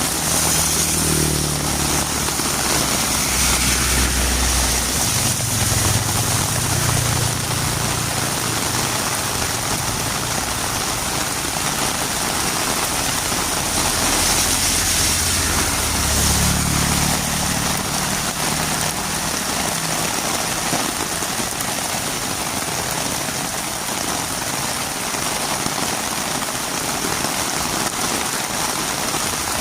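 Heavy rain falling steadily on a road, with the low hum of a vehicle engine passing in the first several seconds and again about halfway through.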